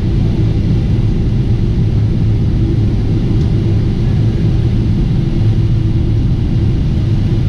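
Steady low drone of a Boeing 747-8 airliner heard from inside the cabin: engine and airflow noise with a faint hum, unchanging throughout.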